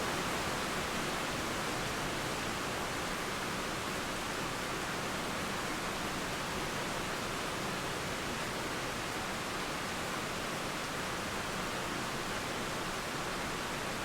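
Steady rain falling, a continuous even hiss with no thunder.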